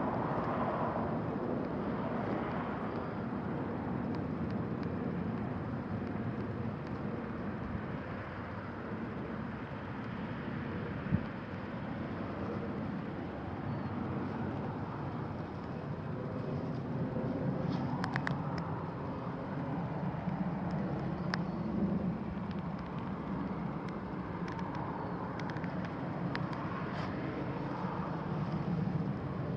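Steady outdoor ambience of distant road traffic, a continuous low rumble that slowly swells and fades as vehicles pass. A few faint sharp ticks are heard now and then.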